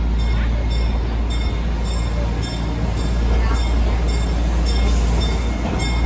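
Narrow-gauge railroad train rolling along, heard from aboard a passenger car: a steady low rumble with regular clicking about two or three times a second.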